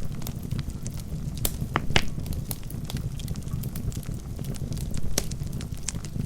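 Wood fire burning in a fireplace: a steady low rumble of flames with sharp, irregular crackles and pops from the logs, the loudest pops about two seconds in and about five seconds in.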